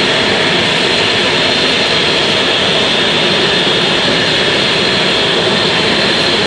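Jet aircraft engine running steadily, a loud even rush of noise with a thin high whine held throughout.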